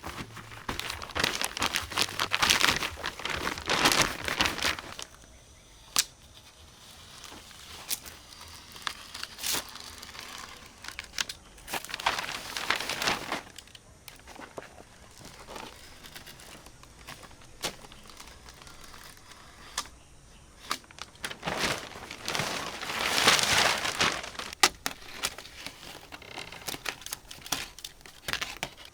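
Crinkling and rustling from dry material being handled, in three bursts (at the start, about halfway through, and near the end), with scattered sharp clicks and snaps in between.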